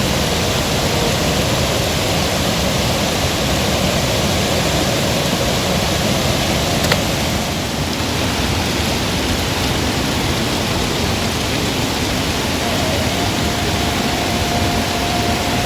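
Steady, loud rushing noise, with a faint steady tone joining in near the end.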